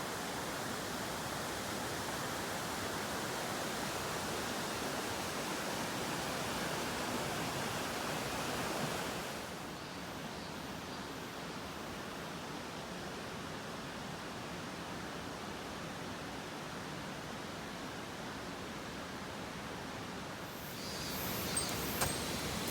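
Mountain stream rushing steadily, an even noise of flowing water. About nine seconds in it turns a little quieter and duller, and a few light clicks come near the end.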